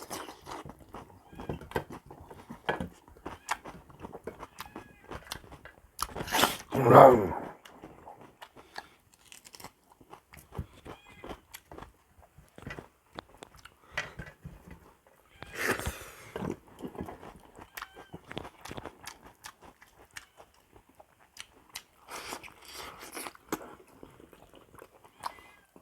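Close-up eating sounds: a person chewing and biting on cooked buffalo trotter, with many small wet clicks and crunches. Two louder bursts come about six and sixteen seconds in.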